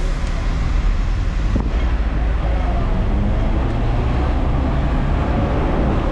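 Hong Kong double-decker tram running along the street: a steady low rumble from the ride, with road traffic around it and a single sharp click about a second and a half in.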